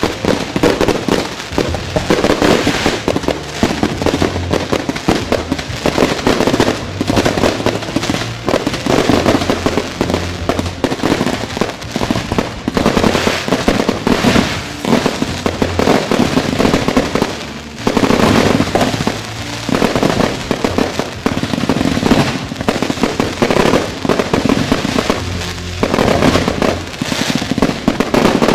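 Aerial fireworks display: shells bursting in quick succession with crackling sparks, one after another without a break, over music.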